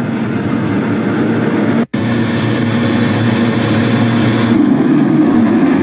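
A field of MX2 motocross bikes lined up at the start gate, their engines held at steady high revs in one dense, droning chorus while they wait for the gate to drop. The sound cuts out for an instant about two seconds in.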